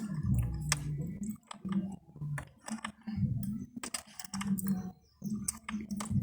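Repeated small clicks and scrapes of plastic water-pipe fittings and hose being handled and fitted together, over a low sound that comes and goes.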